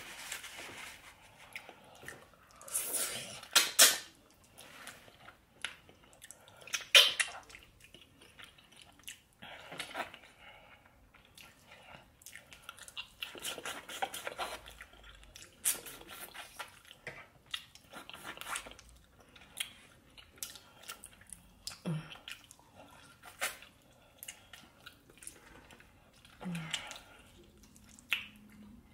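A person chewing and smacking their lips while eating, close to the microphone: irregular wet clicks and smacks, with a few louder sharp ones about three to four seconds and seven seconds in.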